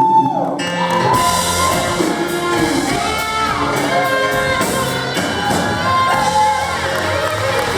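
Live rock band playing, with a singer's voice over guitar and drums.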